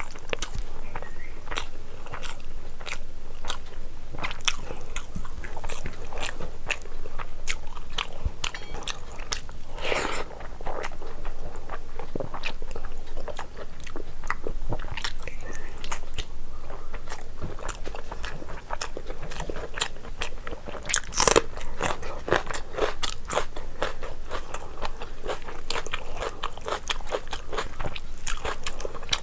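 Close-miked eating sounds of biryani being chewed: continuous mouth clicks, smacking and crunchy bites, with a louder crunch about ten seconds in and the loudest about two-thirds of the way through.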